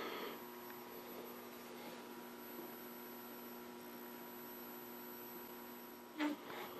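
Faint, steady mains hum from a powered-up Philco Predicta Princess vacuum-tube TV chassis, a few level tones held together.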